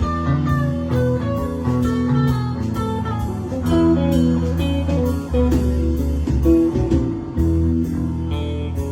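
Live band playing an instrumental passage: electric guitar lines over sustained bass notes and drums, with steady cymbal strokes.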